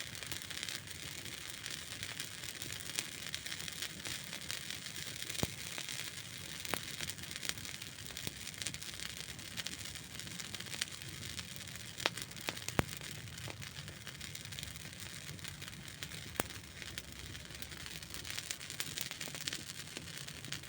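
Campfire burning with a steady hiss and frequent sharp crackles and pops from the burning wood.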